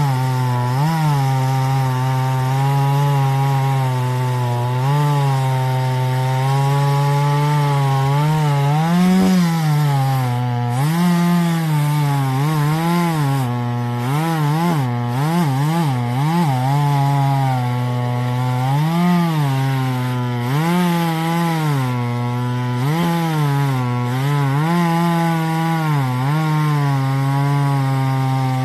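Small two-stroke top-handle chainsaw, the TimberPro CS2500, running at high revs and cutting through a log. Its pitch dips and recovers repeatedly as the chain bites into the wood under load.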